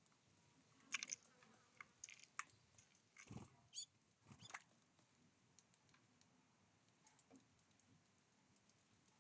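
Small birds at a feeder pecking and cracking seeds: scattered sharp taps and clicks, busier in the first half, with one short high call a little under four seconds in.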